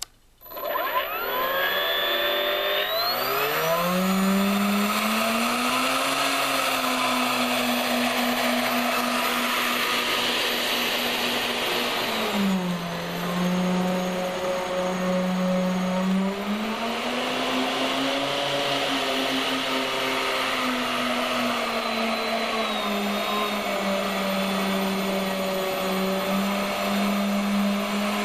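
Electric ducted fans of an RC Boeing 737-700 model running up from standstill about a second in, their whine climbing steeply in pitch. The pitch then shifts with the throttle: it drops back about halfway through and rises again a few seconds later.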